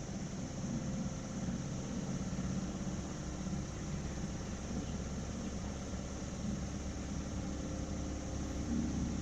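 Steady low hum with a constant hiss, without distinct events.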